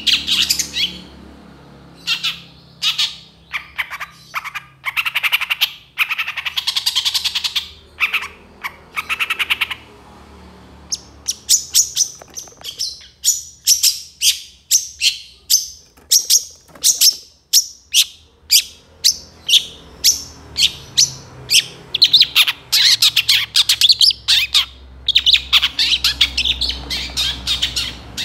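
Long-tailed shrike (cendet) singing a loud, varied stream of harsh chattering phrases. Its song briefly eases about ten seconds in. A run of short, sharp notes follows at two or three a second, then it returns to dense, rapid chattering near the end.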